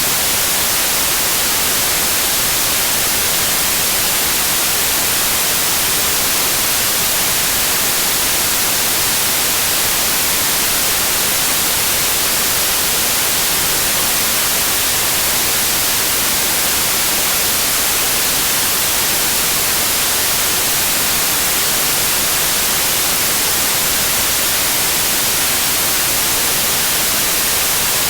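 Steady white noise: an even, unbroken hiss, bright and strongest in the high frequencies, with no changes or events.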